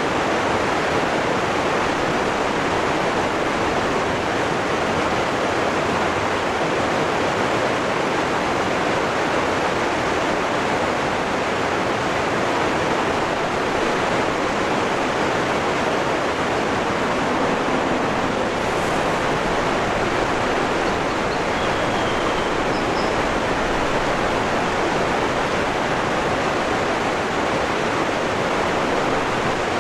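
Waterfall rushing: a steady, even wash of falling water that does not change in level.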